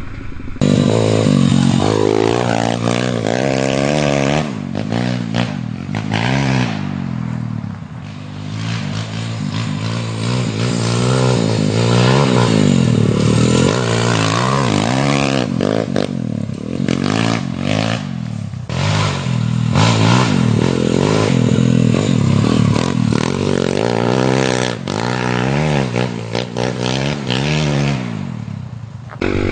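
125 cc dirt bike engine under riding load, its pitch climbing and dropping back many times as the throttle is opened and closed, with a few brief dips in level.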